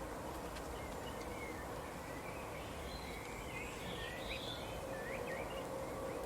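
Small songbirds chirping in short, high twittering calls, mostly through the middle, over a constant outdoor background hiss with a faint steady hum.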